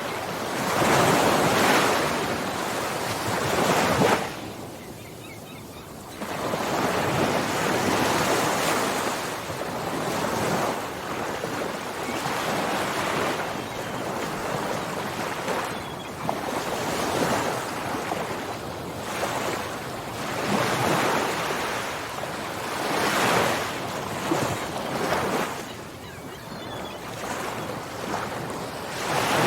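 Ocean waves breaking and washing on the shore, surging and falling back every few seconds, with a brief lull about five seconds in.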